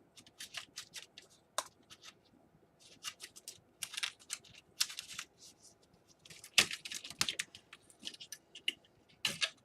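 Irregular clicks, taps and scrapes of a replacement laptop keyboard being pressed and worked into the Dell Inspiron 11's case, with a couple of sharper clicks about two-thirds of the way in and near the end.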